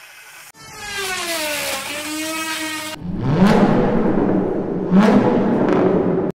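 Car engine sound effect: a whirring note that dips and then climbs, followed by two hard revs, each rising in pitch. It cuts off suddenly at the end.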